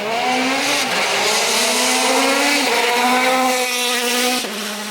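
World Rally Car engine accelerating hard through the gears. Its note climbs and drops sharply at two upshifts, then falls to a lower steady tone near the end as the car goes past.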